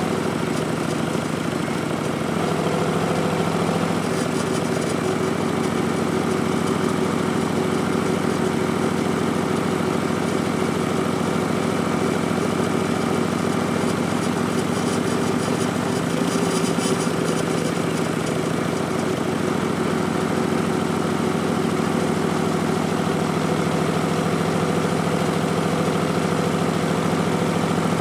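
A 2019 Harley-Davidson Street Bob's Milwaukee-Eight V-twin is running through Vance & Hines Twin Slash slip-on mufflers. The engine note is steady and shifts in pitch a few times: early on, and again just past the middle.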